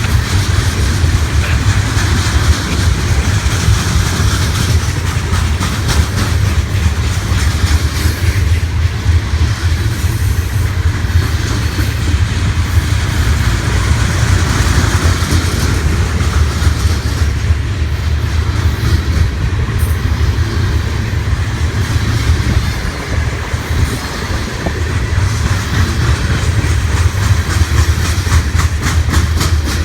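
Freight train rolling past close by: a steady low rumble with the repeated clickety-clack of car wheels over the rail joints.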